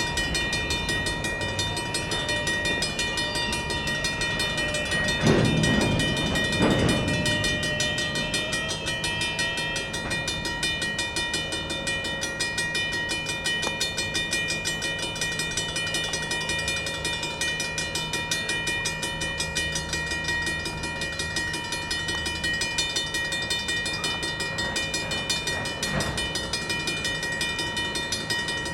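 Safetran mechanical railroad crossing bell ringing continuously with rapid strikes as the crossing is activated. A short louder burst of train noise comes about five seconds in.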